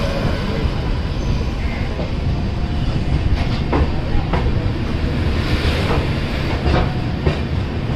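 Passenger train coach rolling into a station: a steady rumble from the wheels on the track. From about the middle on, a series of irregular clacks as the wheels pass over rail joints.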